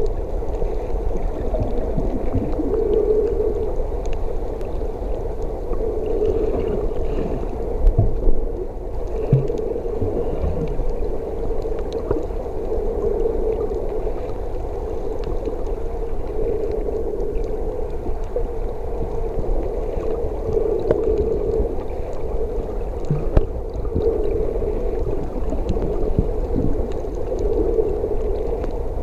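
Sea sound picked up underwater by a submerged camera: a steady, slowly swelling hum over low rumble, with a few short knocks and bumps about eight, ten and twenty-three seconds in.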